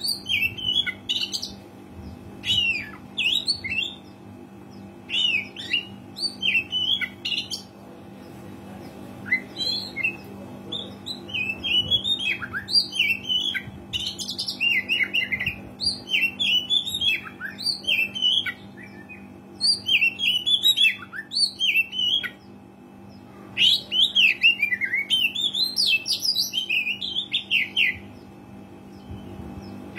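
Oriental magpie-robin (kacer) singing a fast, varied song of chirps and whistles in bursts of a second or two with short pauses between them. A steady low hum runs underneath.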